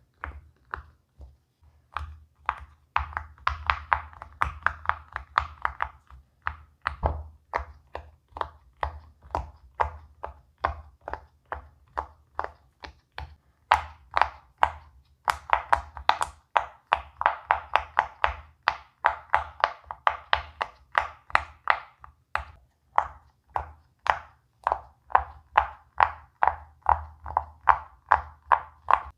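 Silicone pop-it fidget toy bubbles being pressed in one after another, giving a steady run of small, sharp pops at about two to three a second, with one duller thump about seven seconds in.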